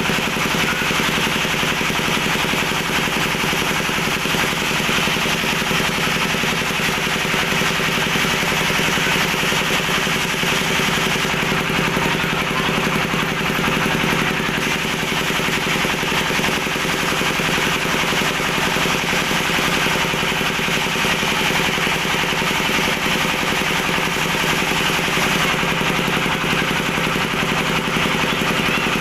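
A steady mechanical drone with a constant hum and hiss, unchanging throughout.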